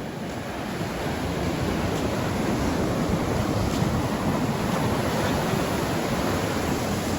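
Ocean surf washing on the shore, a steady rush that builds over the first couple of seconds, with wind buffeting the microphone.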